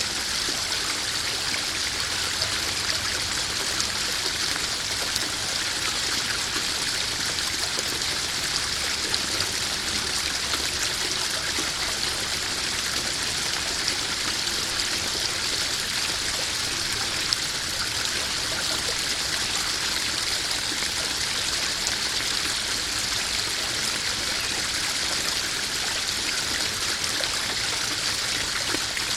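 Small garden-pond waterfall splashing and trickling steadily into a koi pond, a constant even rush of running water.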